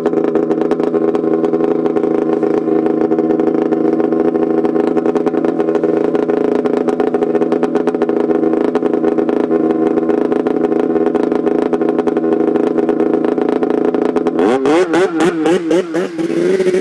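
Snowmobile engine idling steadily, then revved in several quick blips about two seconds before the end.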